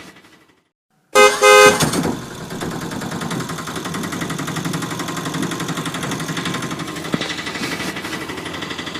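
A small homemade engine running with a steady, fast pulse, cutting in abruptly about a second in after a short silence. It opens with a loud horn-like tone lasting under a second, and the running sound fades out near the end.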